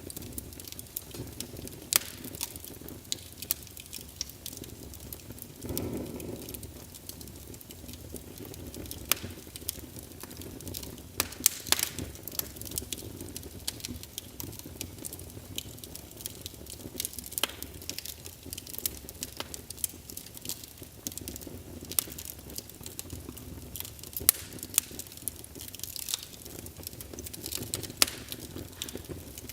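Wood fire in a fireplace crackling, with sharp pops scattered irregularly over the low rumble of the burning logs. A brief swell of the rumble comes about six seconds in.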